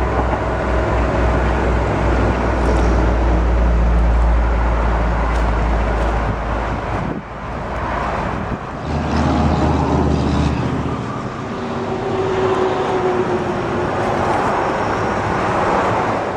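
Chrysler Town & Country minivan's 3.8-litre V6 idling, heard from outside the van. Wind rumbles heavily on the microphone through the first half and again briefly a few seconds later.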